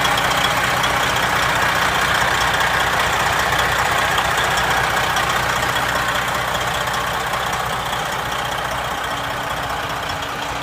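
Detroit Diesel Series 60 inline-six diesel of a Freightliner Cascadia highway tractor idling steadily, growing a little fainter over the last few seconds.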